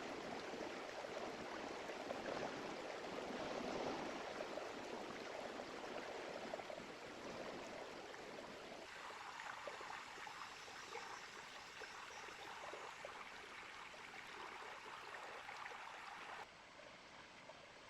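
Small river flowing, a steady rush of water. Its tone changes abruptly about nine seconds in, and it drops suddenly quieter near the end.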